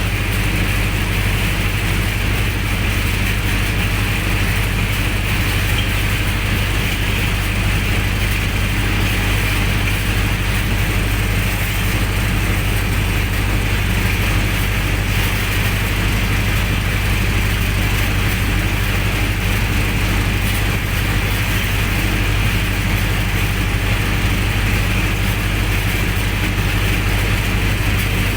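Generator set's engine running steadily at constant speed, with a deep steady hum and no change in pitch or loudness.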